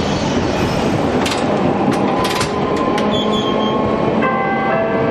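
Hiroshima Electric Railway 550-type tram running, with the rumble of its nose-suspended (axle-hung) traction motors and gearing. A few sharp high clicks come midway, and a whine of steady tones sets in about four seconds in.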